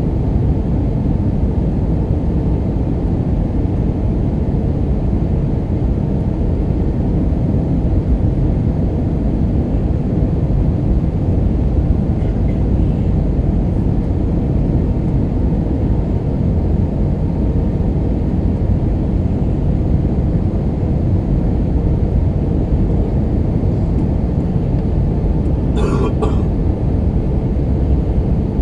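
Steady cabin noise of an Airbus A319-132 in flight: a low, even rush of airflow and its IAE V2500 turbofans, with a faint steady hum. A short, sharper sound cuts through near the end.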